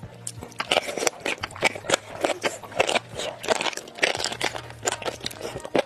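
Close-miked eating: a person biting and chewing crunchy food, in a quick, irregular run of crunches and wet clicks.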